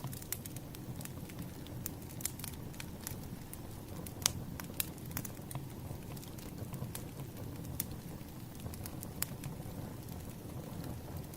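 Burning firewood crackling: irregular sharp pops and snaps over a steady low rumble of the flames, with one louder pop about four seconds in.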